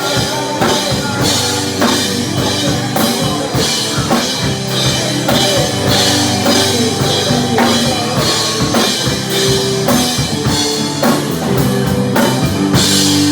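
Live rock band playing: drum kit with steady cymbal and drum hits under sustained bass and guitar notes, with a cymbal crash near the end.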